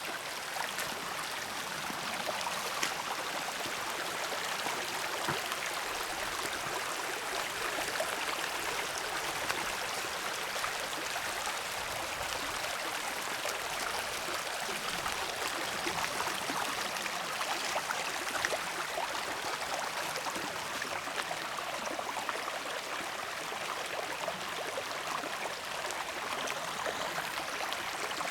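Water running in a small brook, a steady, even rush with many faint scattered ticks through it.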